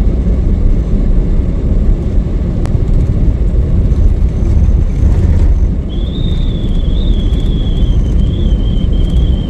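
Pickup truck driving slowly on a snow-covered road, heard from inside the cab: a steady low rumble of engine and tyres. A faint, slightly wavering high whine comes in about six seconds in.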